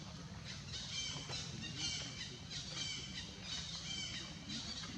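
Baby monkey squealing in short, high-pitched cries repeated about twice a second.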